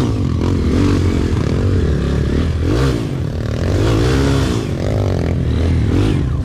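Kawasaki KLX140G dirt bike's single-cylinder four-stroke engine running under way, its pitch rising and falling repeatedly as the throttle is worked.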